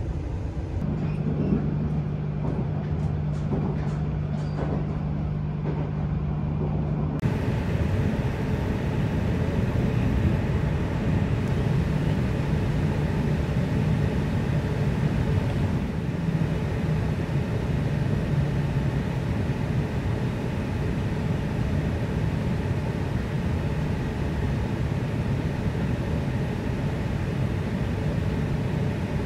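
Steady running noise inside an E6 series Shinkansen car at speed, an even rumble of the train on the track. A low steady hum runs through the first several seconds, and about seven seconds in the sound becomes a fuller rumble.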